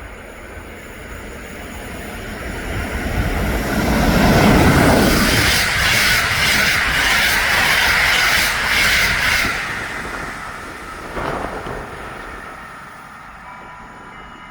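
Train passing through a station stop: it builds up, passes loudest for about six seconds with wheels clicking over rail joints and a steady high ring, then fades away.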